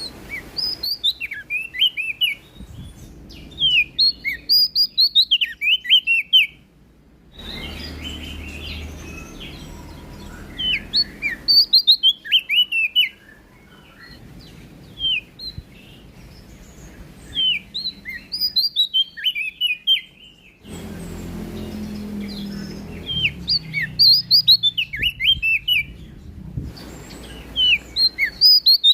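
Prenjak daun (leaf warbler) singing: bursts of rapid, high, chirping notes, a phrase every several seconds. Faint background hiss under the song changes abruptly in level a few times.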